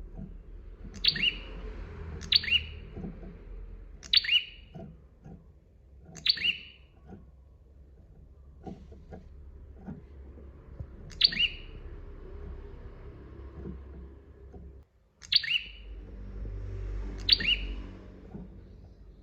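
Prinia (prenjak) calling: seven sharp, loud chirps at irregular intervals of one to four seconds, each very short, over a low background rumble.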